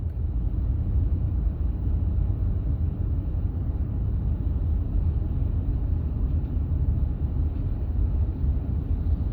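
Steady low road rumble of a moving vehicle.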